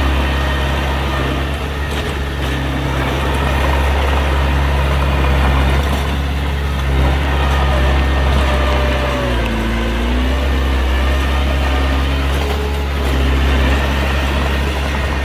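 Heavy diesel engine of earthmoving machinery running steadily, its pitch dipping and rising briefly about ten seconds in.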